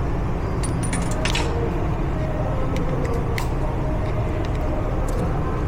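Small metal clicks and clinks as roller lifters are pulled from an engine block and handled, over a steady low drone of shop background noise.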